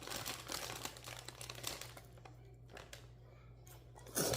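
Crinkling of a potato chip bag being handled, a rapid run of crackles that dies down about halfway through, with a short louder rustle near the end.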